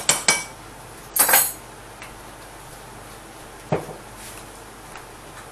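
A metal measuring spoon tapped twice against the rim of a nonstick saucepan, knocking off ground cinnamon. A short clatter follows about a second in, and a single knock comes just before four seconds.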